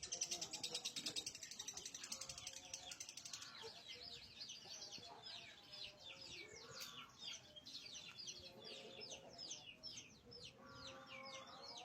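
Lovebird chattering: a fast, evenly pulsed high trill for about the first three and a half seconds, then a long run of quick, high, downward-sliding chirps, several a second.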